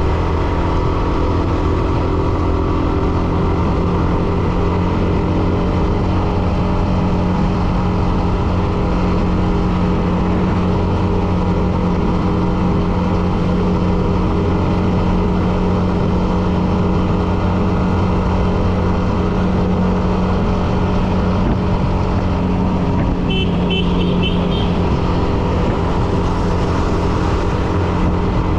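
Hero Xtreme 125R's single-cylinder 125 cc engine running at a steady cruise while the motorcycle is ridden, with no change in engine speed. A brief high-pitched tone sounds about twenty-three seconds in.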